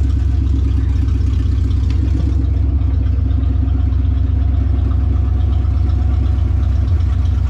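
V8 engine swapped into a 1969 Plymouth Valiant, idling steadily through its headers with an even low-pitched pulse.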